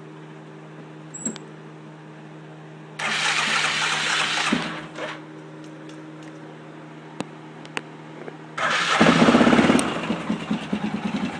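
Arctic Cat 650 H1 ATV's single-cylinder four-stroke engine through its stock muffler. The starter cranks for about a second and a half without the engine catching. On a second try, about eight and a half seconds in, the engine fires, runs loudest briefly, then settles into a steady pulsing idle.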